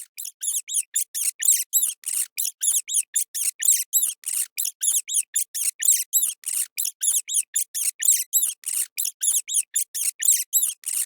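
Rat squeaking: a long, even run of short, high-pitched squeaks, about four or five a second.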